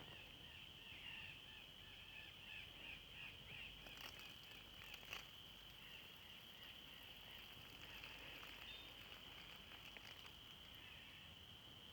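Faint insects chirring: a steady high shrill note with a quick repeating pulse, and a few soft clicks about four and five seconds in.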